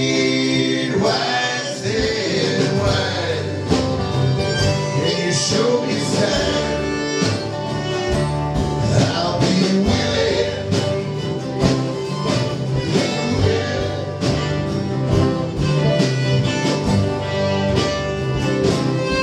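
A country/bluegrass band playing with singing, led by strummed and picked guitar.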